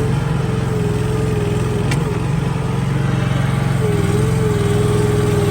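Honda engine of a Gravely Skidsteer 200 mini skid steer running steadily, with a steady whine above it that dips briefly about two seconds in and again about four seconds in.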